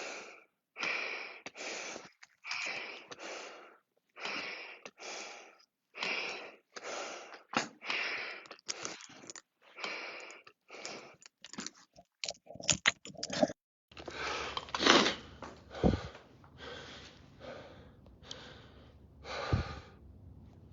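A person breathing hard and fast, each breath a short rasping gasp about once a second, winded from climbing the equivalent of 110 floors of stairs. About fourteen seconds in, a low steady hum starts under the breathing.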